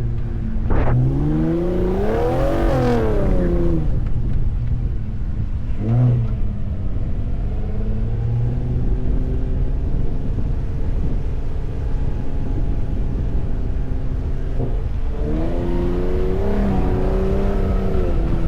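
Ford F-150 Raptor 37's twin-turbo V6 revving hard over the dunes. The pitch climbs and falls over a couple of seconds, blips once briefly, runs steadier, then climbs and falls again near the end, over a steady low rumble.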